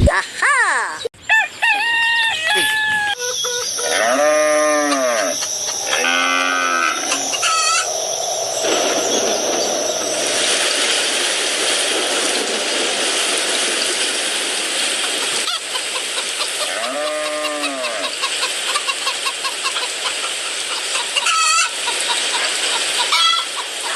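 Farmyard chickens clucking, and a rooster crowing three times, each crow rising and falling in pitch, over a steady rushing background noise.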